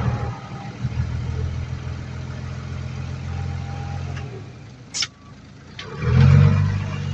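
Heavy earthmoving machine's engine running steadily, then easing off about four seconds in. A brief sharp sound follows about a second later, and the engine then revs up loudly near the end.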